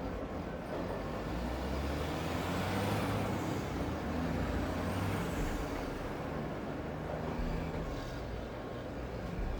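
Rainy city street ambience: steady rain hiss over a low traffic rumble. A heavy vehicle passes, swelling to a peak about three seconds in and fading, with faint high whistling glides as it goes by.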